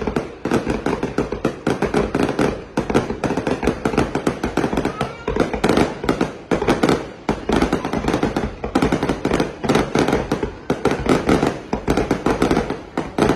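Aerial fireworks display: a dense, continuous barrage of bangs and crackling, many reports a second, pausing only briefly a couple of times.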